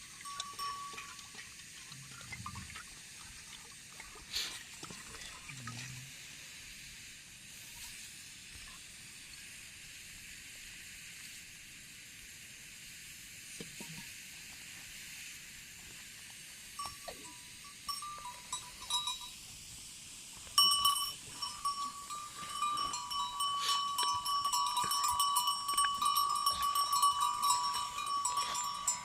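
Bells worn by a flock of sheep clanking and ringing, starting about two-thirds of the way in and growing louder. Before that, only a faint hiss with a few scattered knocks.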